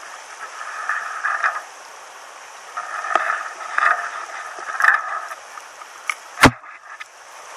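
Small stream running steadily, with bursts of nearby water sloshing and a single sharp knock about six and a half seconds in.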